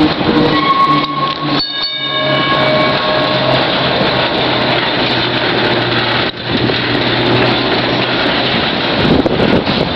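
Vintage tram motor car running with a steady low hum, its bell ringing and its wheels squealing. Several high squealing tones come and go in the first few seconds.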